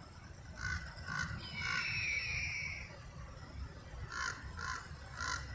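Birds calling: a run of three short harsh calls, then one long high call slowly falling in pitch, then three more short harsh calls near the end.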